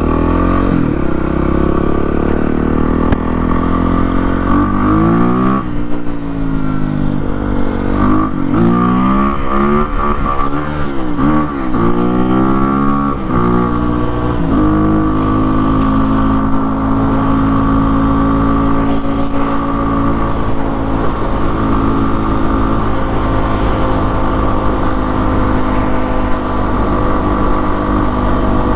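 Kawasaki KLX300R single-cylinder dirt bike engine, breathing through an open airbox and an FMF PowerCore exhaust with a quiet insert, being ridden. Its revs rise and fall repeatedly for several seconds as the throttle is worked, then it settles to a steady pitch for the second half.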